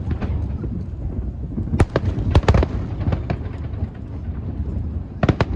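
Fireworks display: aerial shells bursting in sharp bangs, a quick run of them about two seconds in and another tight cluster near the end, over a constant low rumble.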